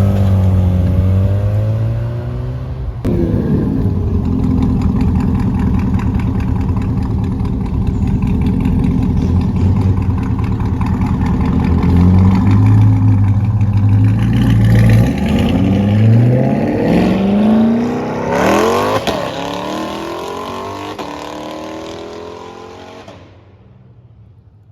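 Loud car engine running and being revved: a steady deep note, then several rising climbs in pitch in the second half as the throttle is opened, before it fades and cuts off abruptly near the end.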